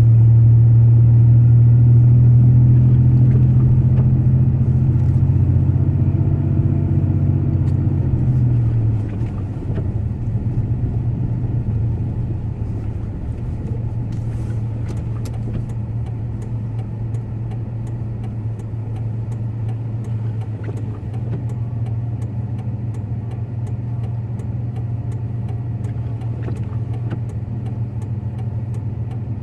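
Truck engine and road noise heard from inside the cab while driving. The engine's steady low drone eases off about nine seconds in, falling a little in pitch and level, then runs on evenly.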